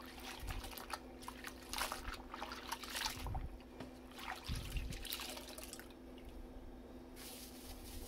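Light rustling and soft knocks of food packages and a plastic tray being handled, irregular and on and off, over a steady low hum.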